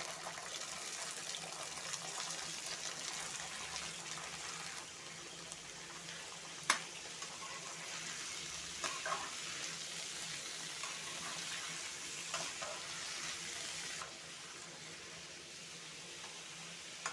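Diced vegetables and peas sizzling steadily in hot oil in a kadai while being stirred with a steel spoon, which clicks against the pan a few times, most sharply about seven seconds in.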